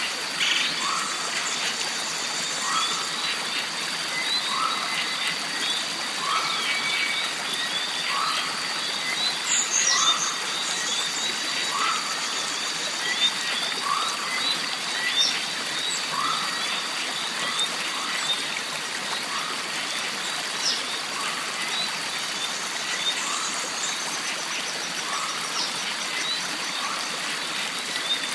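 Jungle stream ambience: water running steadily under a constant high-pitched drone. A short animal call, typical of a frog, repeats about once a second, with small chirps and a few sweeping bird-like calls over it.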